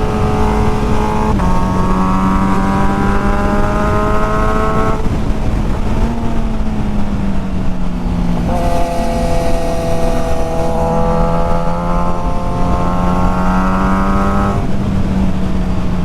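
Motorcycle engine heard on board at riding speed, pulling under throttle with its pitch climbing slowly, easing off about five seconds in, then pulling again from around nine seconds and backing off near the end. Steady wind and road noise runs underneath.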